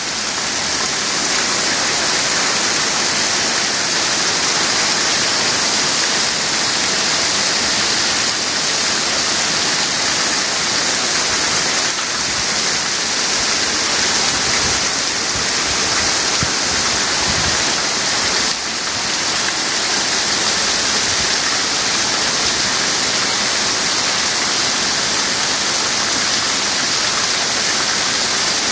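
Heavy rain pouring down in a steady, dense hiss, with water splashing on surfaces.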